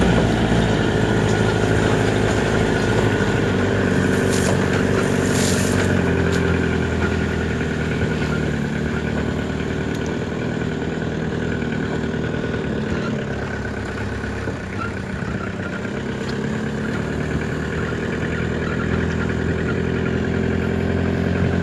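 An engine running steadily at an even speed, with a brief hiss about four to six seconds in.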